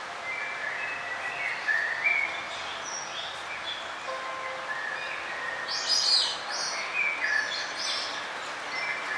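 Songbirds chirping in short, quick notes of varying pitch over a steady background hiss, with the loudest flurry about six seconds in.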